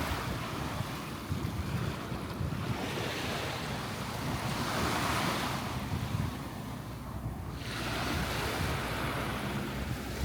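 Surf washing up the beach, its hiss swelling and fading every few seconds, with wind rumbling on the microphone.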